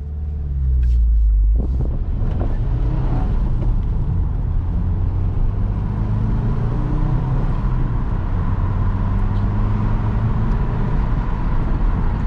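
2022 Subaru WRX's turbocharged flat-four under hard acceleration from inside the cabin: a heavy low rumble at first, then the engine note climbs in steps through the gears and settles into a steady cruise with road noise underneath.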